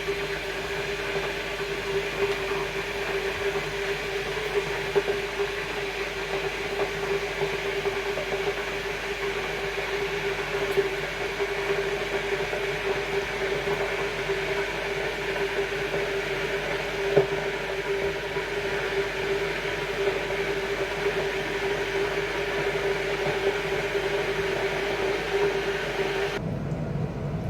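Steady hum of a kitchen appliance's motor, holding one pitch, with a few light knocks; the hum stops suddenly near the end.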